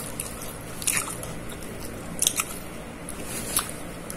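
Biting into and chewing a fried bratwurst sausage with its skin on, with a few short, crisp clicks spread through the chewing.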